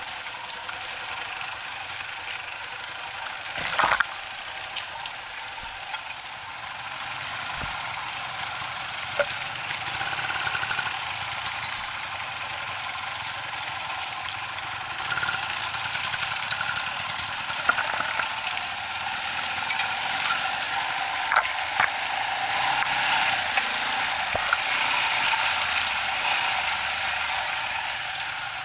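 Off-road motorcycle engine running steadily, getting a little louder through the second half, with a sharp knock about four seconds in.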